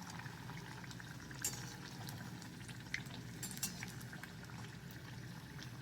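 Besan-battered potato fritters deep-frying in hot oil: a steady, soft bubbling sizzle with a few faint crackles, the fritters nearly done.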